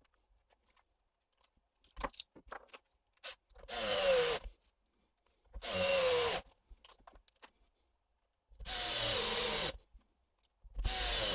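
A small electric motor running in four short bursts of about a second each, each with a whine that drops slightly in pitch, after a few light clicks.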